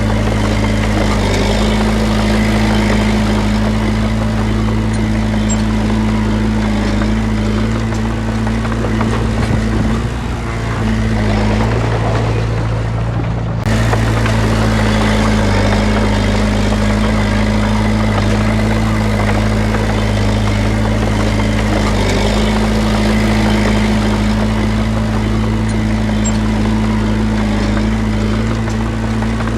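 Heavy diesel engine of earthmoving machinery running steadily with a low hum, broken by an abrupt cut about halfway through.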